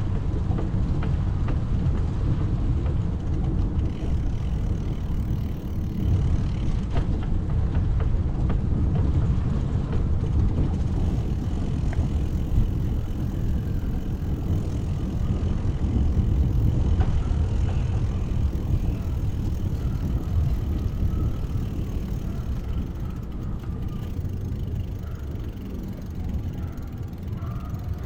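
Wind rushing over the microphone of a moving bicycle, a steady low rumble mixed with tyre and street noise, easing in the last few seconds as the ride slows.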